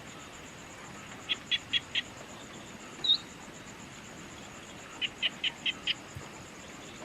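A bird calling twice in a quick run of four or five short, sharp notes, with a single short rising chirp between the runs. Behind it a steady, rapidly pulsing insect buzz.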